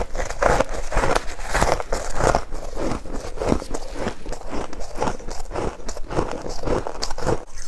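Freezer frost being chewed: a steady run of crunchy, crackling bites and chews, about two a second.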